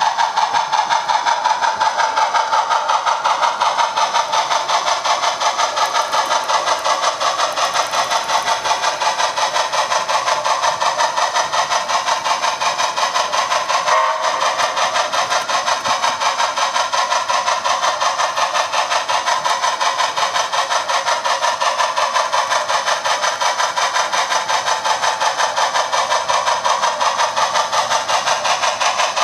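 OO gauge model locomotive running on the layout, giving a steady, fast, even pulsing sound with no bass throughout.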